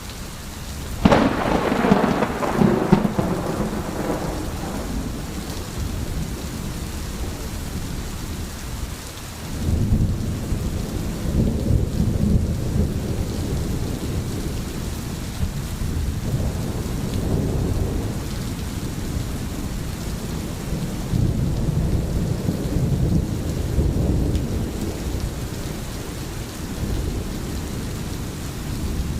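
Steady rain with thunder. A sharp thunderclap about a second in rumbles away over a few seconds, then low rolling rumbles come about ten seconds in and again about two-thirds of the way through.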